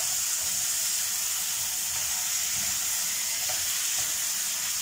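Drumstick pods and potato pieces sizzling steadily in oil in a non-stick wok while being stirred with a silicone spatula, with a few faint soft scrapes.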